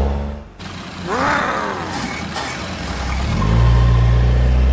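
Cartoon car engine sound effect: a steady low drone that cuts out at the start and starts again about three seconds in. About a second in there is a short rising-and-falling vocal 'ooh'.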